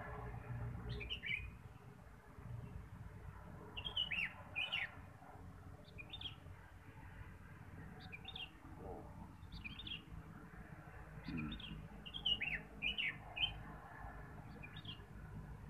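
A small bird chirping in a loose series of short calls, each sliding down in pitch, with several in quick succession around the middle and near the end.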